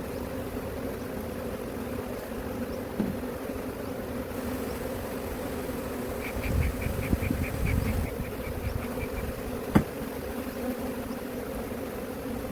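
A mass of hive bees buzzing in a steady hum. About halfway through come a few dull knocks and a quick run of high ticks, then one sharp click.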